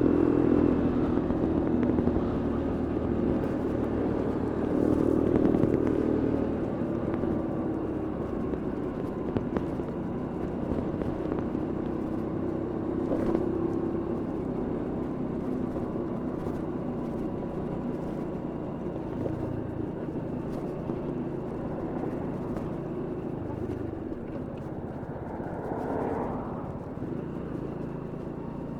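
Bullit Heritage 125cc monkey bike's small single-cylinder four-stroke engine running under way, its note shifting several times with throttle and gear changes. It is loudest at first and gradually gets quieter.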